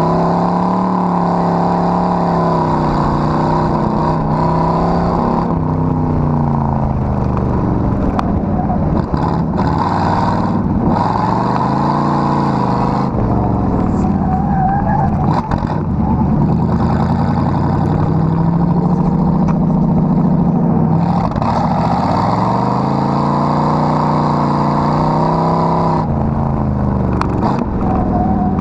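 Car engine revving hard and continuously, its pitch climbing and dropping again and again every few seconds as the throttle is worked.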